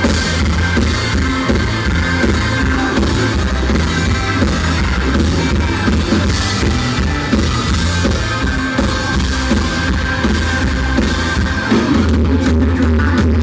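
Live country-rock band playing loudly, with drum kit, electric guitar and bass, captured in a poor-quality audience recording with a boomy low end.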